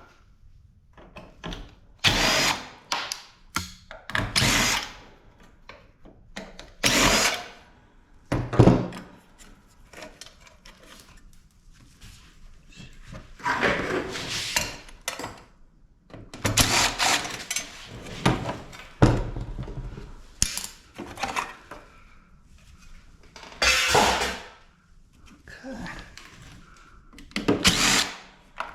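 Power drill run in short bursts, about ten times, each lasting a second or so with brief pauses between, working on the set screw that holds a motor in a scrap air-conditioning unit.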